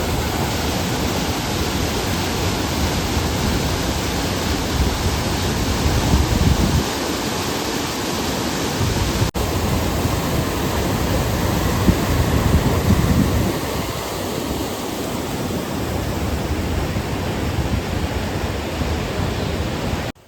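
Waterfall crashing down, a loud steady rush of falling water, swelling deeper twice.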